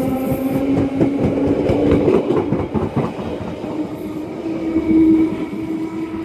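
London Underground Bakerloo line train (1972 Stock) pulling away from the platform, its traction motors whining with a pitch that rises as it accelerates, over a rapid clatter of wheels on the track.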